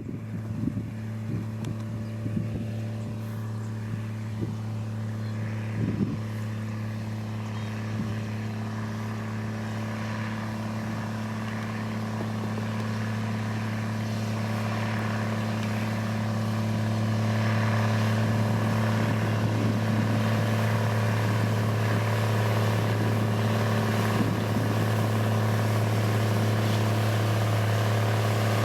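Diesel engine of heavy road-construction machinery, such as a motor grader or road roller, running with a steady drone. There is a single knock about six seconds in, and the engine grows louder a little past the middle.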